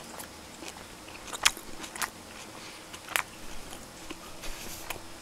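A person chewing a mouthful of barbecued duck wrapped in aged cabbage kimchi, close to the microphone. The chewing is quiet, broken by a few sharp, wet mouth clicks.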